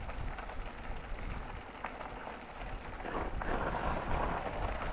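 Wind buffeting the microphone and tyre noise from an e-bike rolling along the trail: a steady rushing noise with a low rumble, growing louder about three seconds in.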